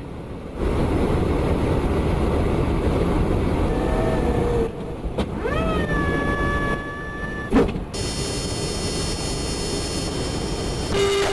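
Jet aircraft engine noise over several short cuts: a steady rumbling hiss, a whine that rises and then holds about six seconds in, and a high steady whine in the last few seconds.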